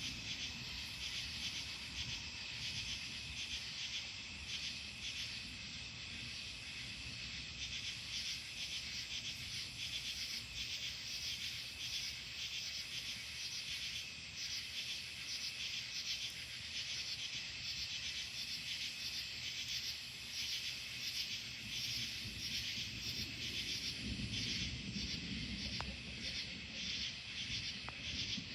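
Night chorus of crickets and other insects, a dense, rapidly pulsing trill, over a low rumble of distant thunder that swells near the end.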